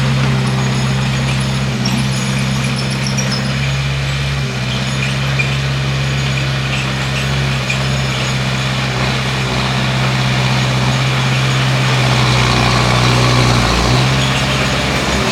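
Bulldozer's diesel engine running with a steady, even note that dips briefly near the end.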